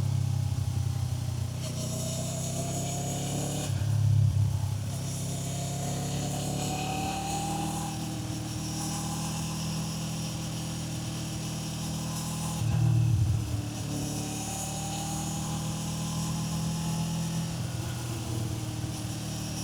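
Kawasaki Z500's parallel-twin engine pulling under way, its pitch climbing slowly through two long stretches, with a brief louder change about four seconds in and another about thirteen seconds in, over a rush of wind.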